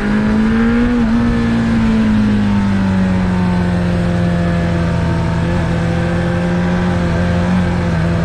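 Suzuki Bandit 600's inline-four engine running under way, its pitch rising for about a second and then easing back to a steady drone.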